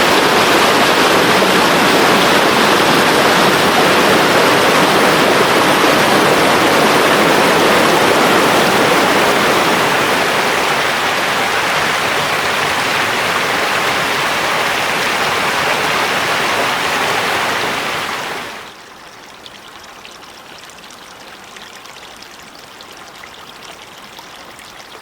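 Mountain stream babbling over rocks, a steady loud water noise; about three-quarters of the way through it drops abruptly to a much quieter flow of water.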